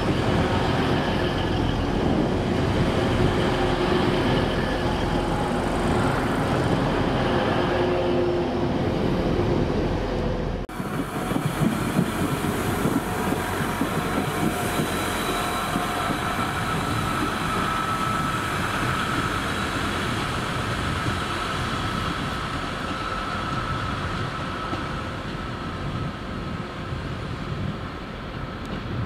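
A train running, with a dense rumble and a few steady tones. About ten seconds in the sound cuts abruptly to another train recording with a high steady whine over the rumble.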